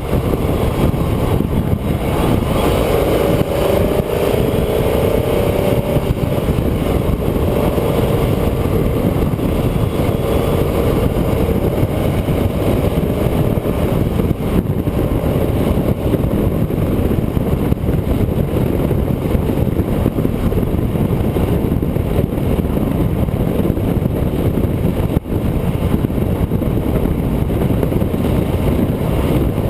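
Onboard sound of a road vehicle driving along a winding road: a steady, loud rush of engine, wind and road noise, with the engine note standing out between about two and twelve seconds in.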